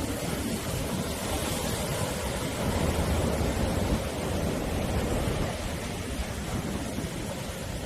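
Sea waves breaking and washing up the shore in a continuous surf rush with deep rumble, swelling a little louder near the middle.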